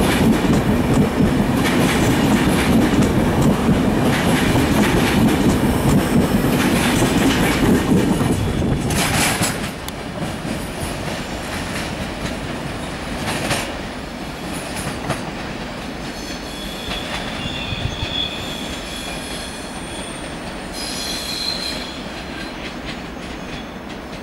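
ÖBB Railjet passenger train running past at close range, with a low rolling rumble and repeated wheel clatter over rail joints. After about nine and a half seconds the sound drops away, and from about sixteen seconds in, high wheel squeal comes and goes as a train works through curved track and points.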